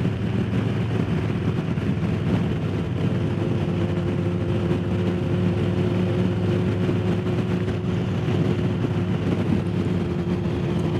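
Harley-Davidson Low Rider S's Milwaukee-Eight V-twin running at a steady cruising speed, its engine note holding an even pitch, under a constant rush of wind noise.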